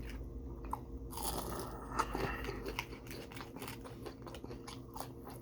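A person biting and chewing crunchy fried fast food close to the microphone: a string of small, irregular crunches.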